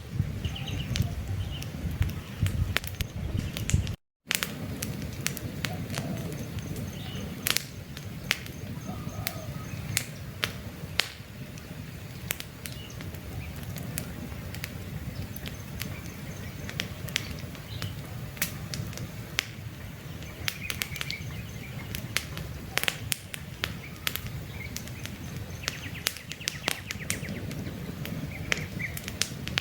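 Wood campfire crackling, with many sharp pops and snaps over the low rumble of the flames, and birds chirping in the background. The sound cuts out for a moment about four seconds in.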